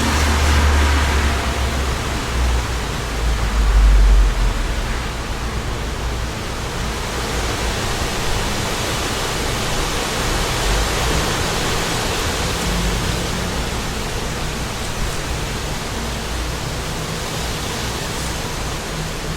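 Wind blowing steadily, gusting against the microphone with deep rumbles just after the start and again around four seconds in.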